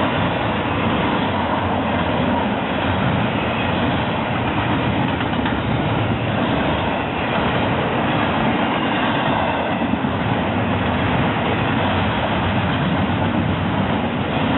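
Train rolling past on the track: a steady, loud rumble of wheels on rail, with some clickety-clack.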